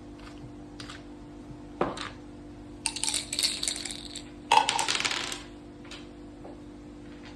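Dice and game pieces clattering on a mak saka (Thai backgammon) board: a sharp click just before two seconds in, then two rattling runs of clicks near the middle, over a steady low hum.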